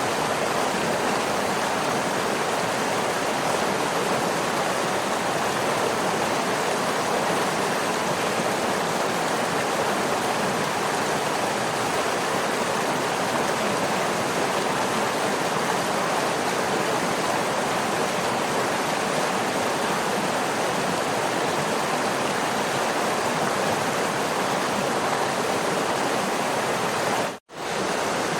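Waterfall: a steady, even rush of falling water with no breaks in its texture. Near the end the sound cuts out for a split second and comes straight back.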